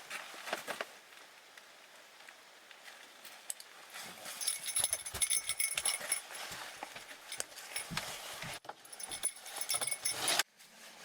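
A dog eating from a bowl, with irregular clicking and a metallic jingle from about four seconds in.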